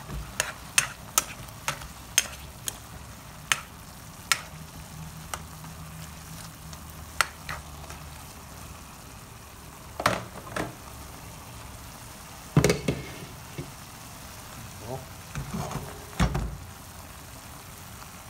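Chicken wings and liver sizzling in a nonstick wok as the adobo sauce cooks down. A cooking utensil clicks against the pan in quick strokes during the first several seconds, then gives a few heavier knocks later on.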